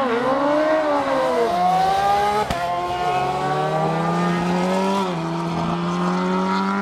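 Drag-racing motorcycle engine under full throttle down the strip, its pitch wavering at first, then climbing through the gears with shifts about two and a half and five seconds in.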